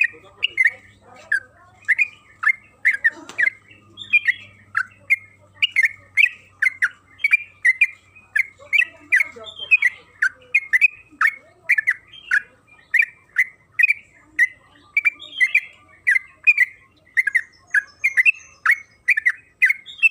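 A yellow-vented bulbul (trucukan) calling without pause: a rapid chattering string of short, sharp notes, each sweeping down in pitch, about two a second.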